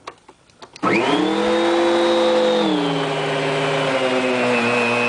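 A few clicks, then a Dirt Devil upright vacuum cleaner's 12-amp motor starts with a quickly rising whine and runs loud. Its pitch drops about two seconds later. The motor is burnt out: the owner says it is fried, and it smokes and smells of burning.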